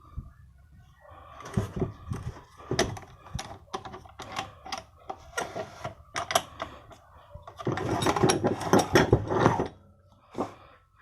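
Irregular metal clicks and knocks from handling a demolition hammer and its chisel, with a denser spell of rapid knocking about eight seconds in.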